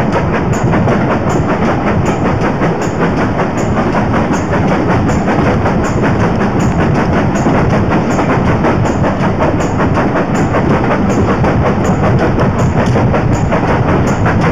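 Heritage train running, heard from an open carriage window: a steady rumble with wind on the microphone and a regular tick about one and a half times a second.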